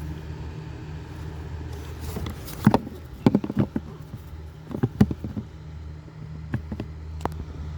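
A steady low hum inside a car, with a run of sharp clicks and knocks in the middle and a few more near the end.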